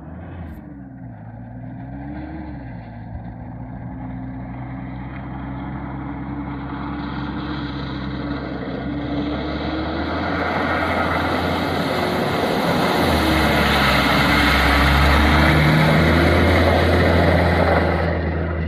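Mitsubishi Pajero 4x4's engine working hard offroad, revving twice near the start, then held at high revs under heavy load. A rushing noise swells steadily louder over it and drops away sharply near the end.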